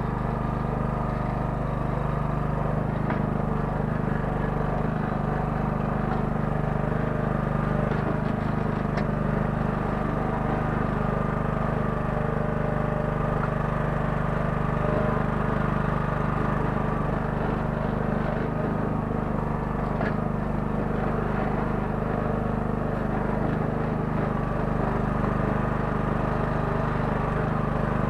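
The 9 hp engine of a Kellfri towable mini excavator running steadily while the machine digs, with a few faint knocks.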